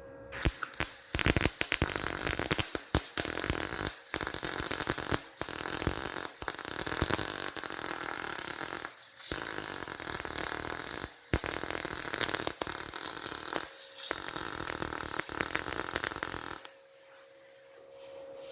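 Electric welding arc crackling and sizzling while bracing is welded onto a car frame. It runs in several beads broken by short pauses, then stops abruptly near the end.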